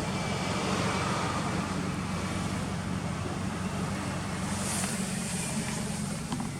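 Toyota Celica ST202's 2.0-litre 3S-GE four-cylinder idling steadily through an aftermarket muffler.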